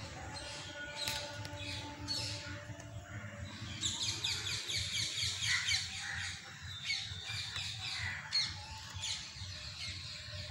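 Birds chirping and squawking, with a fast chattering run of high repeated notes starting about four seconds in and lasting some two seconds, and scattered single chirps around it.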